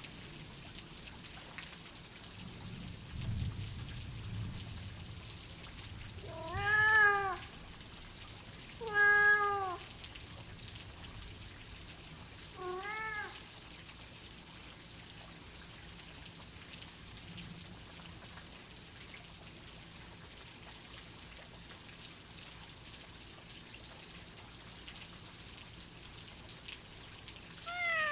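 Steady rain with a soft low thunder rumble a few seconds in. A domestic cat meows three times in the first half, each a rising-then-falling call, the middle one the loudest, and once more at the very end.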